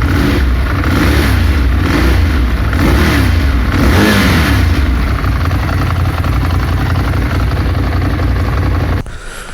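Ducati Monster 821's liquid-cooled 821 cc L-twin, bassy on its stock exhaust, revved up and down several times in the first few seconds and then running steadily. The engine sound falls away suddenly near the end.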